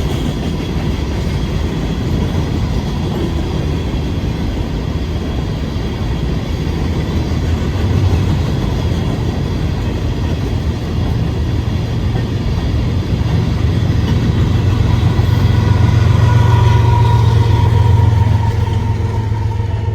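Empty rock train of freight cars rolling past at track speed, wheels clacking over the rail joints. A locomotive's diesel engine drone builds from about halfway through and is loudest near the end, as one of the train's distributed-power units comes by.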